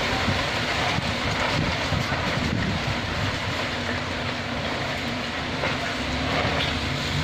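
Strong wind blowing hard: a steady, dense rushing noise.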